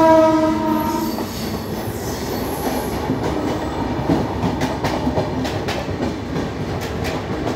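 A train horn holds one steady note until about a second in, over the continuous rumble and clatter of train wheels on the rails, with a faint high wheel squeal in the first few seconds. Heard from a moving train with a goods train of automobile-carrier wagons running close alongside.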